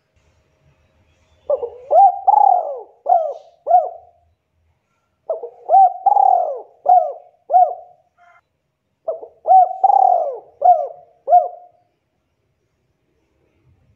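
Spotted dove cooing: three phrases, each a run of about five short coos that swoop up and fall away, with a pause of a second or two between phrases.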